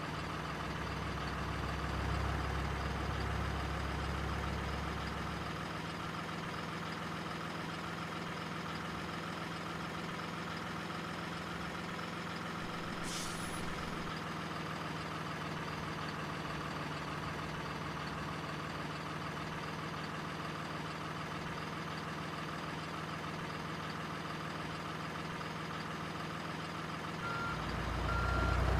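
Scale RC truck's sound module playing a diesel truck engine running steadily, with a deeper surge in the first few seconds and again near the end. A short air-brake hiss comes about halfway through, and reversing beeps start just before the end.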